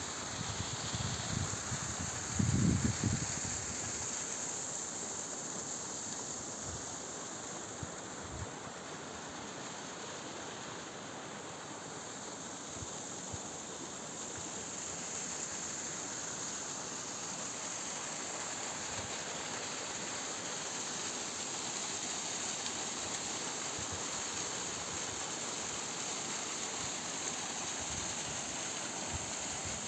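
Mountain waterfall rushing with a steady roar of falling water. A few low thumps come near the start.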